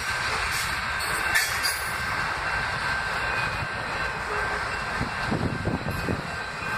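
Ferromex freight train passing through a grade crossing: autorack and covered hopper cars rolling by, a steady noise of steel wheels running on the rails.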